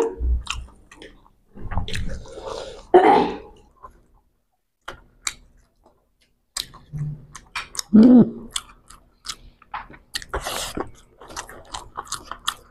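People chewing mouthfuls of rice and crisp-fried hilsa fish, with wet mouth sounds and many small scattered clicks.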